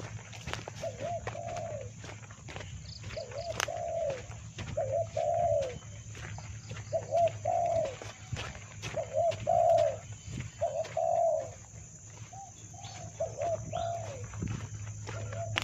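Spotted dove (tekukur) cooing: a long series of arching coos, one every second or so, over a steady low hum.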